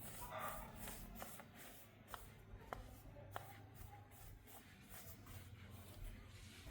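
Faint scraping and rustling from hand work, with a few light, sharp taps about two to three and a half seconds in, over a low steady hum.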